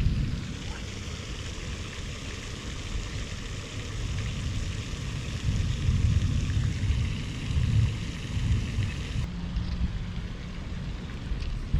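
Thunder rumbling low and continuously from a nearby storm, swelling about six to eight seconds in, over a steady hiss.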